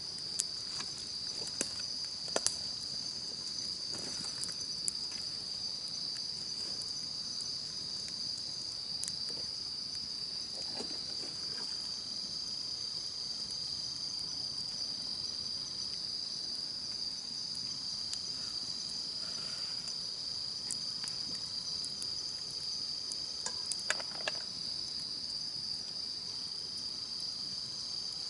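Insects chirring steadily in one continuous high trill, with a few sharp pops and crackles from a wood campfire, several near the start and a couple near the end.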